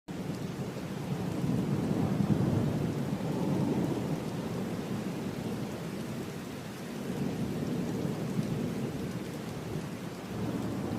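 Heavy rain falling steadily with rolling thunder rumbling low beneath it, swelling about two seconds in and again near the end of the first eight seconds.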